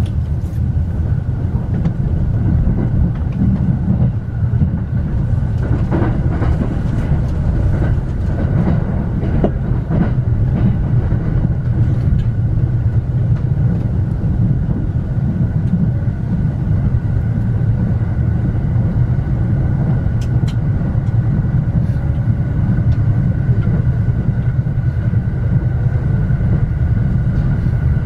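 A JR commuter electric train running steadily at speed, heard from inside the passenger cabin: a continuous low rumble of wheels on rail, with a faint steady high tone and occasional light clicks.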